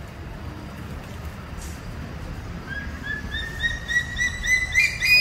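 Red lory calling: a quick series of short notes, about four a second, starting a little over halfway in, climbing in pitch and growing louder toward the end.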